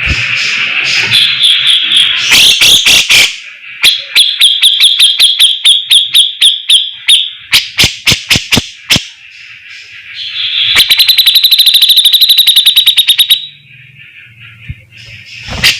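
A grey-cheeked bulbul (cucak jenggot) singing loudly in bursts of fast, harsh repeated notes, the rattling 'besetan' of a bird in full song. The bursts come in several runs, with a few slower separate notes in the middle and the fastest, densest rattle near the end.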